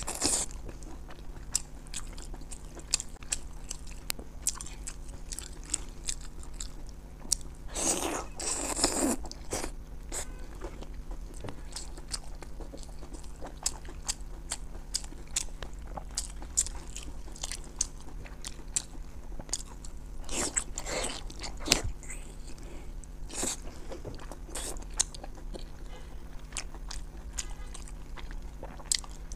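Close-miked chewing and biting of pork, with a run of small wet clicks and smacks, and two louder noisy bursts about eight and twenty-one seconds in.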